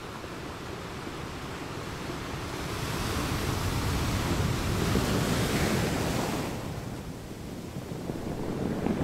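Ocean surf: a wash of noise that swells to its loudest around the middle, eases off for a moment, then builds again near the end.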